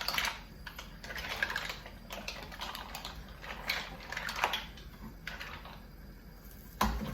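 Mussel shells clicking and clattering against each other and the pot as they are stirred and turned over in tomato stew, a run of quick irregular clicks.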